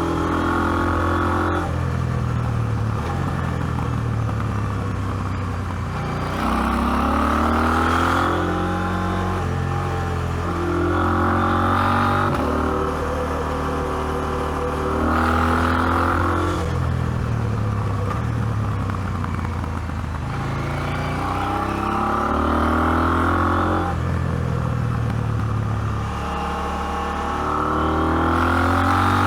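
KTM 790 Adventure's parallel-twin engine under load on a climb, revving up again and again in about five rising pulls, the revs dropping back between each.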